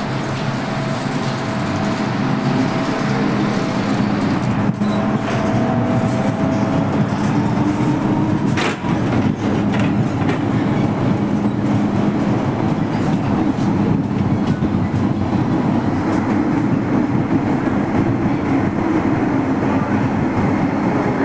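MTR M-Train electric multiple unit running on the track, heard on board: a steady rumble of wheels on rail with the humming tones of its traction motors, and a single sharp clack partway through.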